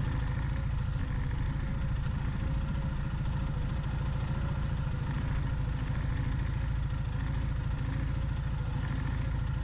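Motorcycle engine running steadily at low revs, its firing pulses close and even.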